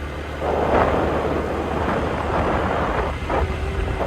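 Wind buffeting the microphone over a motorcycle's engine running on the move, as a steady low rumble. A faint held tone comes in near the end.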